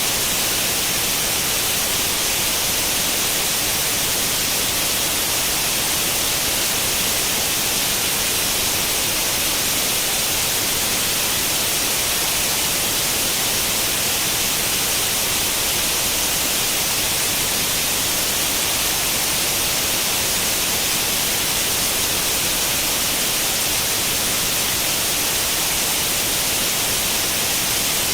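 Steady static hiss of the kind an old CRT television makes when tuned to no channel, even and unchanging, brightest in the high treble.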